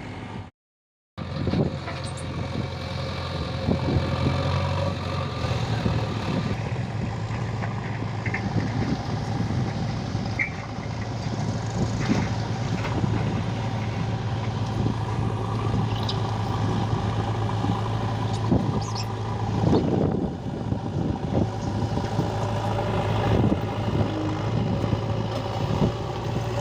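JCB 3DX backhoe loader's diesel engine running steadily under work, with scattered knocks and scrapes. The sound cuts out completely for about half a second near the start.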